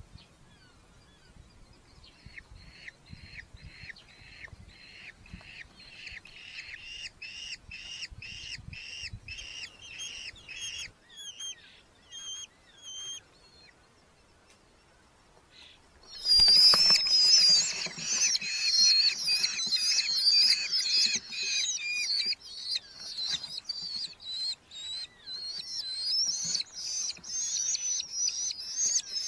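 Red-footed falcons calling at the nest: a rhythmic series of calls about two a second, a short pause, then, about sixteen seconds in, a sudden loud outburst of many overlapping shrill calls from several birds at once.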